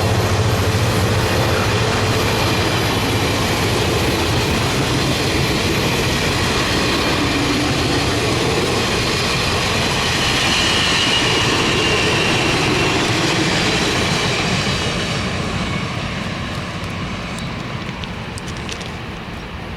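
Caltrain diesel locomotive train passing close by: engine hum and rolling wheels over the rails, steady and loud, then fading away over the last several seconds as it recedes.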